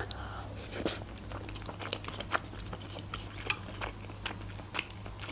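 Close-miked chewing of a mouthful of dushpere, small dumplings in broth, with many small wet mouth clicks at irregular intervals. A faint steady low hum sits underneath.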